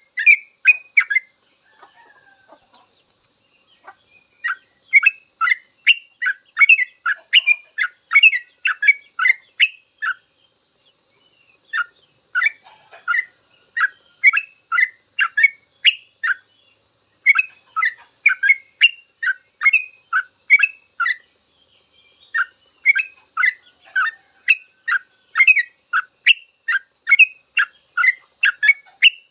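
Yellow-vented bulbul (trucukan) singing long runs of rapid, sharp chirping notes, about three a second, in phrases broken by brief pauses. This is the continuous rolling 'ropel' song used to train other bulbuls.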